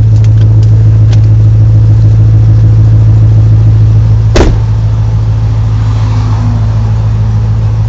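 Ford Shelby GT500's supercharged V8 idling steadily while the car stands still, heard from inside the cabin. A single sharp click comes about four and a half seconds in, and the engine sound is a little quieter after it.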